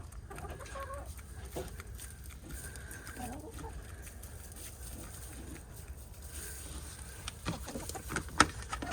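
Backyard hens clucking softly now and then, with a few sharp clicks near the end.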